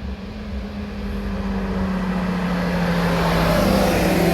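A car's engine growing steadily louder as it approaches, its note holding steady and sinking a little in pitch.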